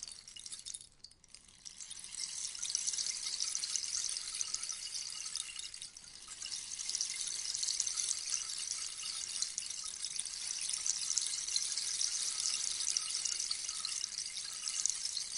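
Rainstick: a dense, high pattering of small pellets trickling down inside the tube, like steady rain. The stream thins out about a second in and again around six seconds, then builds back up.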